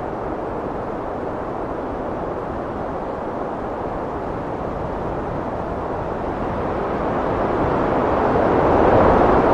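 Heavy wind blowing as a steady rushing noise, swelling louder in a gust over the last few seconds.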